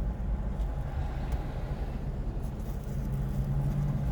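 Steady low hum of an idling car engine.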